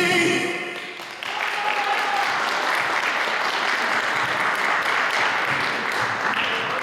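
Audience applauding at the end of a sung song, the last sung note and accompaniment dying away in the first second before the clapping starts.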